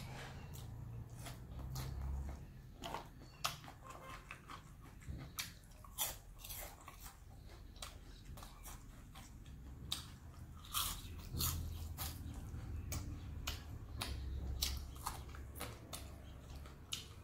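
Close-miked eating: chewing with many sharp, irregular crunches of crispy fried dry fish.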